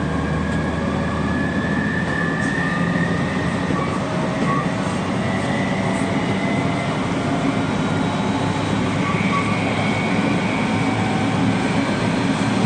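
Aoimori Railway electric train running along the track, heard from inside a passenger car: a steady rumble of wheels on rail with a faint high whine.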